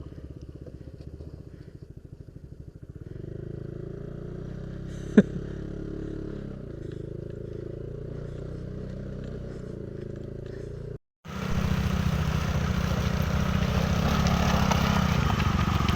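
Yamaha Aerox scooter's single-cylinder engine running under way, with a short sharp sound about five seconds in. After a brief break about eleven seconds in, the engine is louder.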